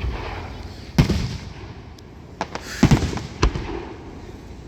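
Aerial fireworks bursting at a distance: a bang about a second in, then a cluster of several bangs near the middle, each followed by a rumbling echo.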